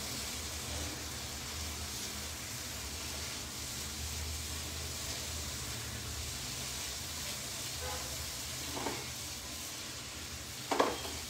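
Yogurt-marinated paneer sizzling in oil and butter in a frying pan as a spatula stirs it. The yogurt's water has cooked off, so only the fat is frying. Near the end comes a brief sharp knock, the loudest moment.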